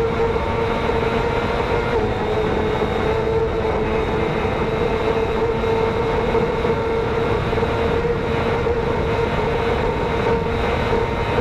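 Road-racing motorcycle engine running hard at a steady high pitch, with rushing noise underneath.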